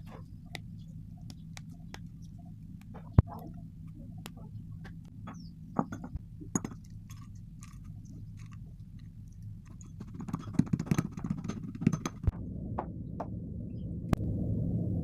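Gym chalk being bitten and chewed: scattered crisp crunches and clicks, the loudest a single sharp crack about three seconds in, with a dense run of crunching about ten to thirteen seconds in. A steady low hum runs underneath.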